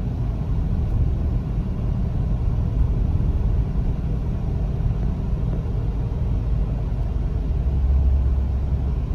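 Toyota Corolla driving: a steady low rumble of engine and road noise, swelling slightly near the end.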